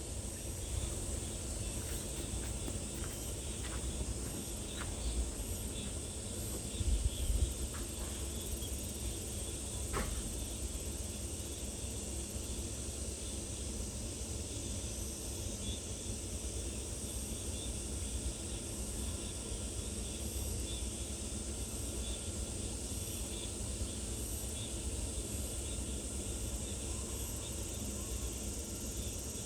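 Steady high-pitched insect chorus over a constant low rumble, with a few faint clicks.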